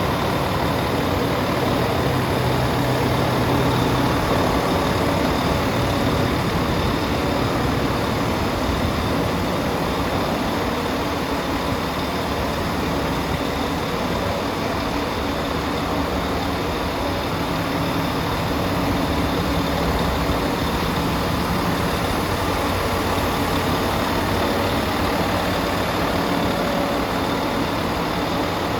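Volvo FH12 460 truck's 12-litre straight-six turbo diesel idling steadily, its low note shifting slightly now and then.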